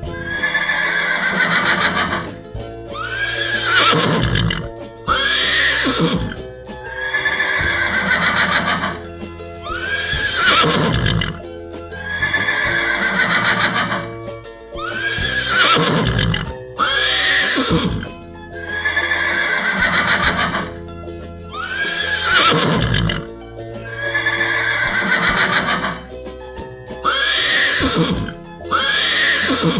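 A horse neighing, the same whinny repeated about every six seconds, over steady background music.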